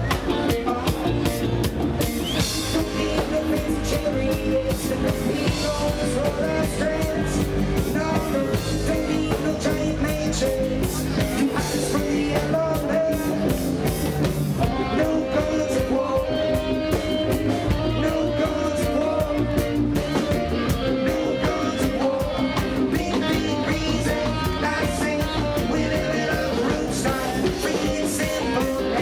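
Live roots reggae band playing an instrumental passage: drum kit, bass and guitar.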